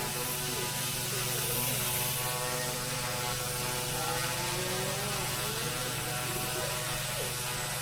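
Goosky S1 RC helicopter flying, its twin brushless direct-drive motors and rotors running: a steady hum with a whine that wavers up and down in pitch.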